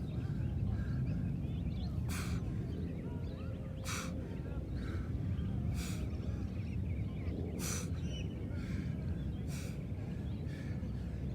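Short, sharp exhaled breaths about every two seconds, keeping the rhythm of repeated sledgehammer exercise movements, over a steady low rumble with birds chirping faintly.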